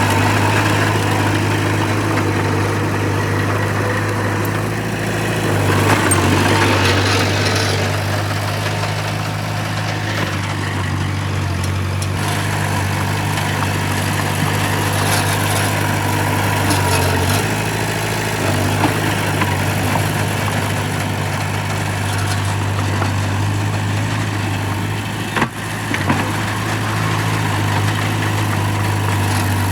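Diesel engine of heavy earthmoving machinery running steadily, with a louder stretch about six seconds in and a brief sharp knock near the end.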